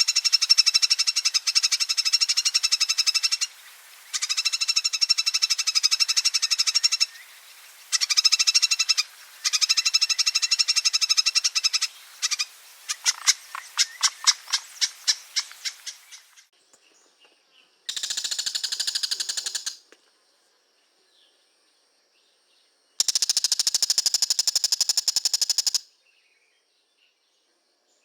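Oriental magpie-robin (kacer) giving its long rattling chatter (ngekek) in long runs with brief breaks. About halfway the chatter slows into separate notes and fades out, and two shorter bursts of chatter follow later.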